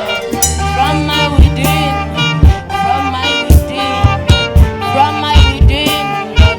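A live worship band plays a groove with a steady kick-drum beat, a bass line and a wavering lead melody.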